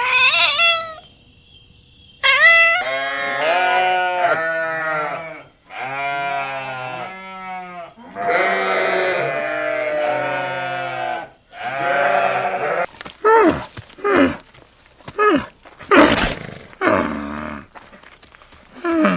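A sequence of animal calls: long wavering cries, each lasting a second or two, through the middle, then a string of short sharp calls near the end.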